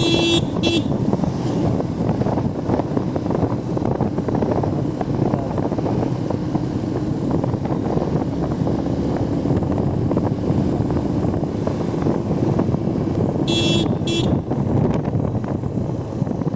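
A vehicle driving along a road: steady low engine and road rumble. A horn gives two quick toots at the very start and two more about fourteen seconds in.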